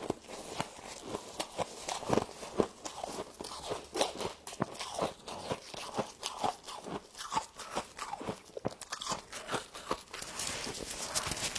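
Frost being bitten and chewed close to the microphone: a run of crisp crunches, about two to three a second, turning denser near the end.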